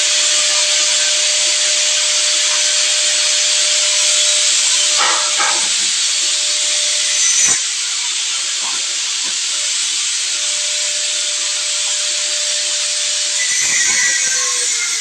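Power sprayer spraying: a steady, loud hiss of the spray with the pump motor's thin whine under it. A few knocks come about five seconds in, and a sharp click halfway through.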